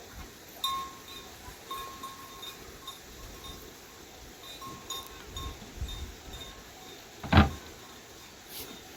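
Livestock bells clinking on and off in short rings, with one sharp loud knock about seven and a half seconds in.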